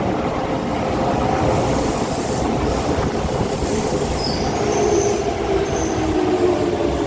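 Hokuso Railway 9100-series electric train pulling into the station: steady running rumble of wheels on rail, brief high squeals around the middle, and motor tones that slide down in pitch near the end as it slows.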